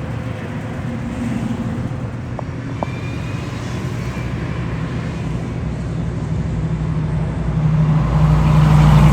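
A motor vehicle's engine running steadily, growing louder near the end.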